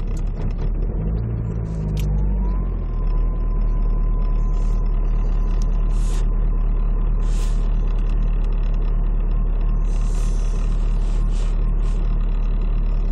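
Volkswagen Passat B5+ diesel engine idling steadily just after a cold start in −24 °C frost. A faint steady whine comes in about two seconds in and holds.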